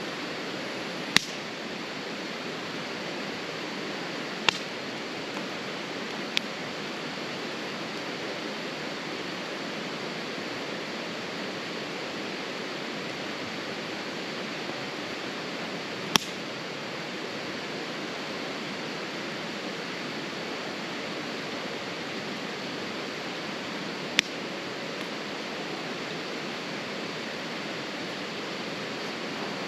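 Wood fire in a small campfire pit crackling, with five sharp pops, the loudest a little after 1 s and at about 16 s, over a steady rushing background noise.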